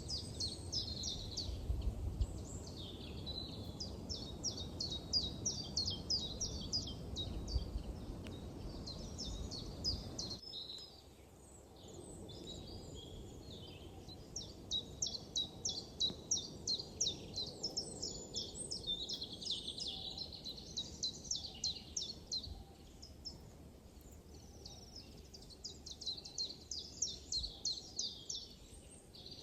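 Small songbirds singing in a forest: fast trilled phrases of rapidly repeated high notes, one after another. A low background rumble underneath drops away suddenly about ten seconds in.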